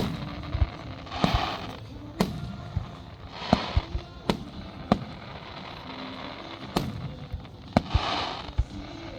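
Aerial fireworks going off: about eight sharp bangs at uneven intervals, roughly one a second, with several short crackling hisses among them.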